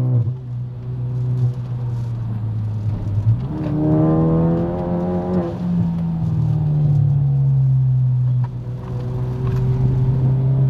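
Car engine heard from inside the cabin, with road noise from the wet road. About four seconds in, the engine note climbs for a couple of seconds as the car accelerates, then holds and slowly eases off.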